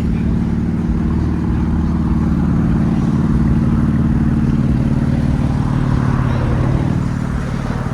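A car engine running steadily close by, a low, even rumble that eases off near the end.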